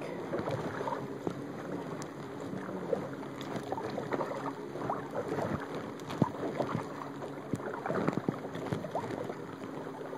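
Kayak being paddled on a lake: the paddle dipping and splashing, water lapping at the hull, and scattered light knocks.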